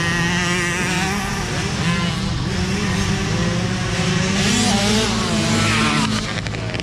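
Several motocross bikes racing, their engines revving up and down with overlapping pitches rising and falling.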